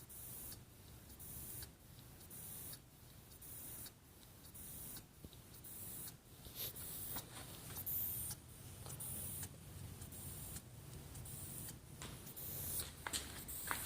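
Stuart model steam engine running on live steam, hissing in puffs roughly once a second over a steady low hum.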